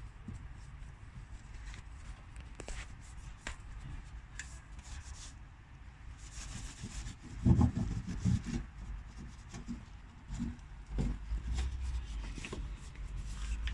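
Detailing brush scrubbing engine bay surfaces, a steady scratchy rubbing with scattered small clicks and a few louder knocks about halfway through.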